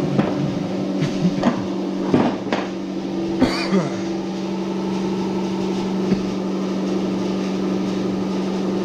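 A handful of light knocks and clinks from two-stroke snowmobile engine parts being handled and set down on a workbench, bunched in the first four seconds with one more a couple of seconds later, over a steady machine hum.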